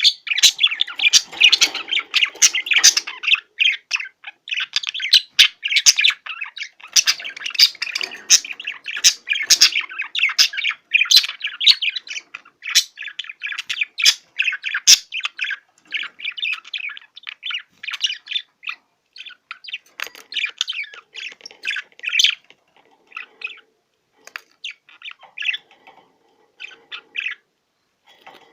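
Male budgerigar warbling and chattering in a fast run of short chirps and clicks, its courtship song to stir a hen into activity and mating. The chatter thins to scattered chirps for the last several seconds.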